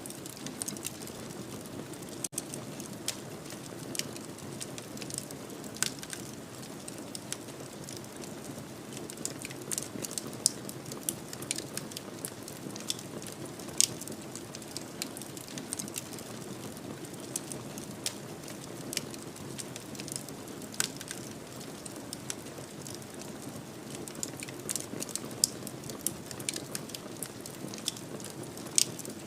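Wood fire crackling in a fireplace: frequent sharp, irregular pops and snaps over a steady soft rush of burning.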